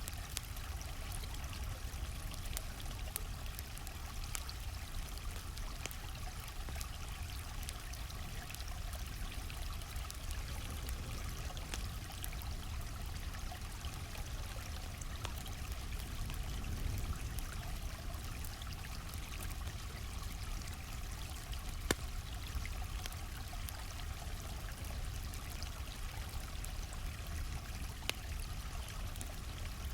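A gently flowing stream, a steady rush of water, with a campfire crackling over it in small scattered pops and one sharper pop about two-thirds of the way through.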